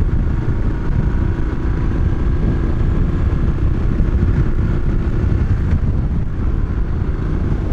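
Moto Guzzi V-twin motorcycle running at a steady cruising speed, its engine note buried in wind buffeting on the microphone.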